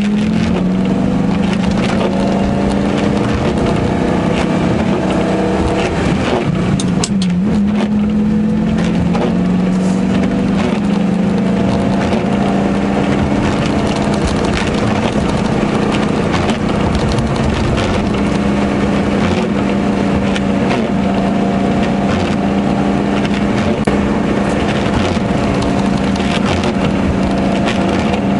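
Lamborghini Gallardo's V10 engine heard from inside the cabin, running at a steady cruising pitch over road noise from the wet tarmac. The pitch finishes a climb at the start and dips briefly about seven seconds in before settling again.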